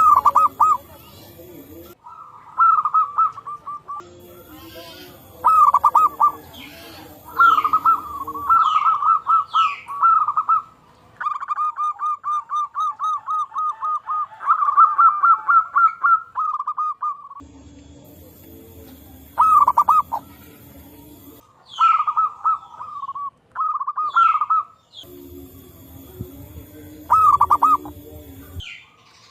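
Zebra doves (perkutut) cooing and answering each other in phrases of quick, rippling notes, including one long run of rapid even notes in the middle. Short high downward chirps sound between the phrases.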